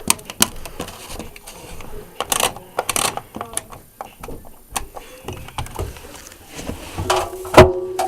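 Scattered clicks and knocks, with one loud knock near the end followed by a short ringing tone.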